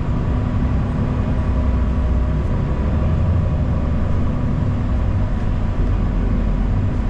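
Steady low rumble of a city transit bus under way, heard from inside the cabin: engine and road noise, with a thin steady whine above it.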